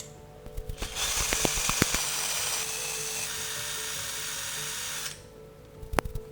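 A small kitchen machine runs steadily for about four seconds with a hissing, drill-like sound, preceded by a few clicks and followed by a sharp knock near the end, over background music.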